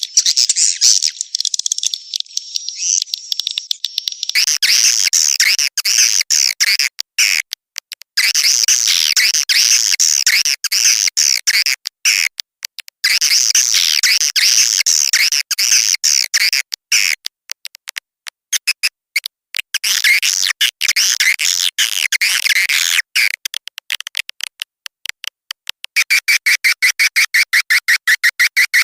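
Recorded edible-nest swiftlet (walet) calls, a lure track for swiftlet houses: dense high twittering chirps mixed with rapid clicking, in stretches broken by short gaps. Near the end it changes to a fast, even train of repeated chirps.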